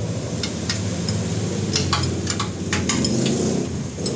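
Scattered light metallic clicks and taps of tools over a steady low hum.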